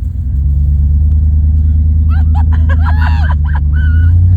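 Pickup truck engine running with a steady low drone while towing, with indistinct voices over it partway through.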